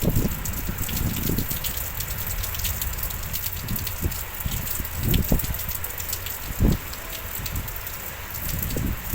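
Heavy rain falling steadily, a dense hiss of many small drop ticks, with gusts of wind rumbling across the microphone a few times.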